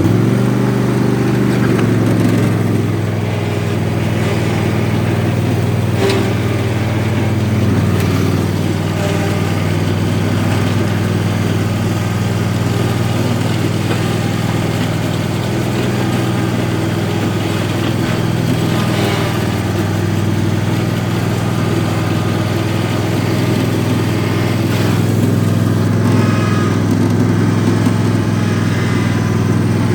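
Husqvarna riding mower's small engine running steadily, running well, with a slight change in pitch about two seconds in.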